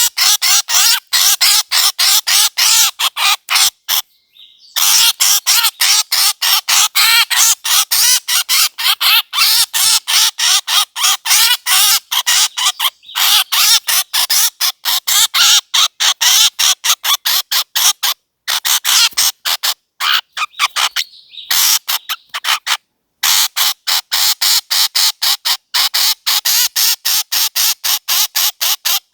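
Bird calls used as a hunting lure: a fast, unbroken run of short, harsh, squawking notes, about four a second, with a few brief breaks.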